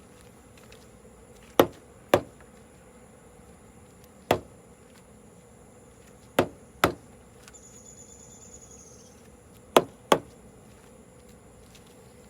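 Sharp knocks, seven in all and mostly in pairs about half a second apart, over a faint steady high-pitched insect-like drone; a brief faint high whistle-like tone sounds between the later knocks.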